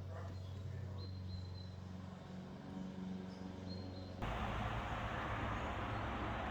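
Outdoor background sound: a steady low hum with a few faint high chirps, like birds. About four seconds in, it switches abruptly to a louder, even rushing noise, like wind or distant traffic.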